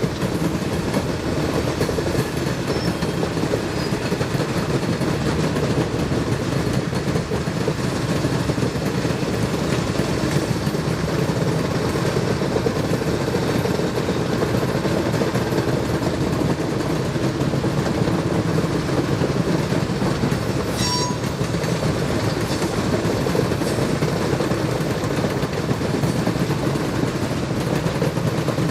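ALCo S1 diesel switcher locomotive working steadily under load as it moves a cut of freight cars, a continuous heavy rumble. A short high-pitched tone cuts in briefly about three quarters of the way through.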